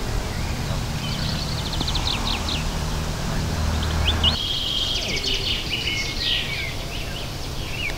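Songbirds chirping and trilling, with several calls overlapping. A steady low rumble lies under them and cuts off suddenly about four seconds in.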